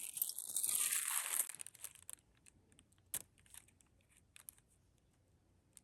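Crinkling and rustling as jewelry and its wrapping are handled, for about the first two seconds, then a few faint small clicks and taps.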